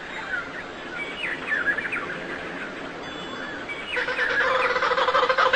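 Several birds chirping and twittering in short, quick gliding notes. About four seconds in, a louder call with a fast, even pulse begins.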